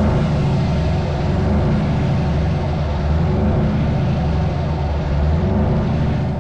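Scania S truck engine running steadily through open, unsilenced exhaust pipes, a loud low sound with no let-up in pitch or level.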